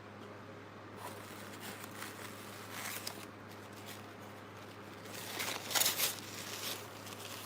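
Takeout food packaging being handled: scattered rustles and crinkles, the loudest run about five to six seconds in.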